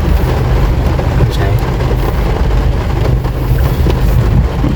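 A motor vehicle's engine running steadily with a low hum, with wind buffeting the microphone and faint voices underneath.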